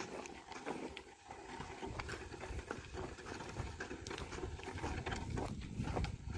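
A team of oxen plodding while ploughing: irregular hoof steps and small knocks, with a low rumble that builds from about two seconds in.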